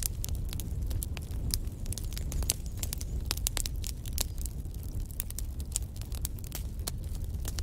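Wood fire burning in a fireplace: a low steady rumble of flames with frequent sharp, irregular crackles and pops.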